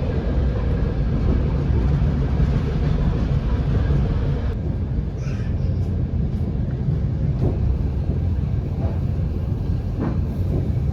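Doğu Express passenger train running on the rails: a steady low rumble, with the higher hiss thinning out about halfway through and a few faint clicks.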